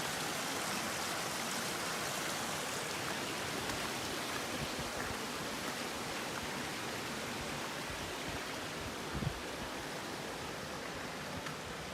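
Rushing mountain brook running high in spring, a steady hiss of water that eases off a little toward the end. A single low thump about nine seconds in.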